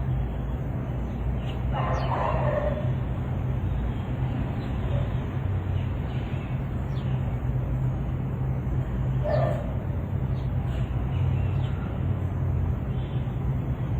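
Outdoor ambience: a steady low rumble, with a bird calling twice, about two seconds in and again near ten seconds, and fainter chirps in between.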